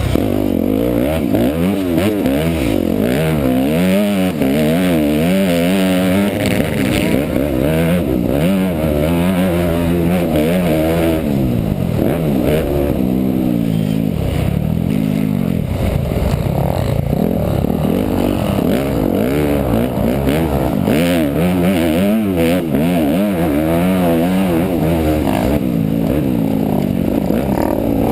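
Motocross dirt bike engine heard up close, revving up and down again and again as the throttle is opened and shut, with rattles and wind noise.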